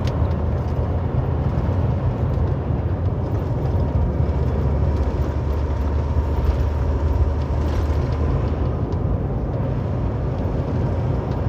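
Semi truck's diesel engine and road noise droning steadily inside the cab; the deepest part of the rumble eases about nine seconds in.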